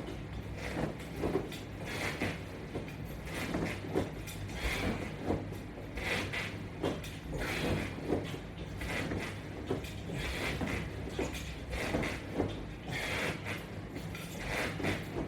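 Rhythmic creaking and rubbing from a resistance-band strap assembly and its wall-mounted bar being worked through sit-ups, roughly one stroke a second, over a steady low hum.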